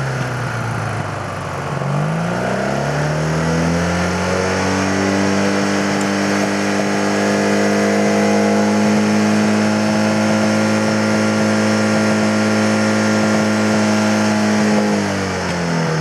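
Ural motorcycle's flat-twin engine revved and held: the revs dip, climb over about two seconds, stay steady at a high speed for about eleven seconds, then fall back toward idle near the end. Its carburettors have just been balanced with vacuum gauges.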